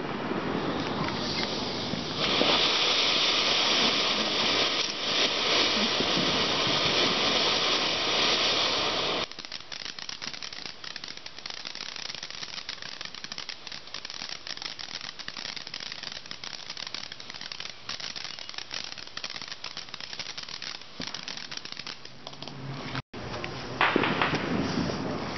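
Ground fountain fireworks hissing and crackling as they spray sparks. The sound drops sharply to a quieter hiss about nine seconds in, then grows louder again near the end.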